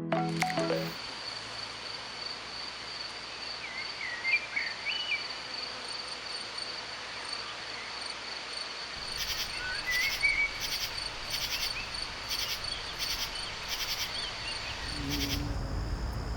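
Insects, crickets by their sound, trilling steadily at a high pitch. A few short bird chirps come in a quarter of the way through and again near the middle. From about halfway a second insect adds a pulsed chirp, about one and a half a second. Near the end the trill stops and a low hum takes over.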